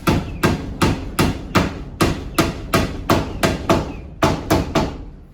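Repeated sharp blows at a steady pace, about three a second, stopping just before the end.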